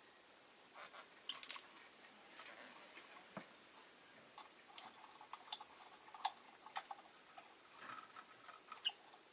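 Faint, scattered clicks and ticks with a few short, soft chirps from a pet rosy-faced lovebird.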